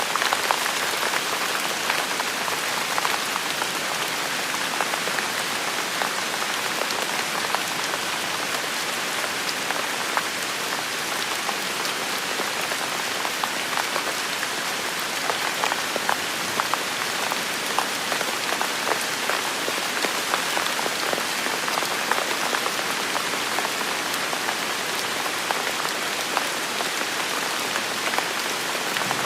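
Steady rain falling outdoors: an even hiss dotted with many individual drops striking surfaces.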